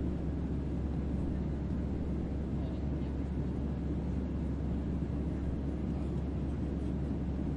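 Steady white-noise ambience of a starship's onboard hum, heavy in deep bass with a fainter hiss above it and no changes or events.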